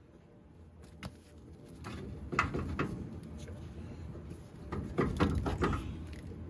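Scattered clanks and knocks of hand tools and steel suspension parts being worked on a car's front end, one sharp knock about a second in and quick clusters of knocks about two and a half and five seconds in, over a low rumble.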